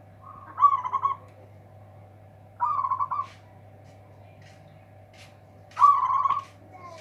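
Zebra dove (perkutut) cooing: three loud, warbling coo phrases about a second long each, spaced about two and a half to three seconds apart, over a faint steady hum.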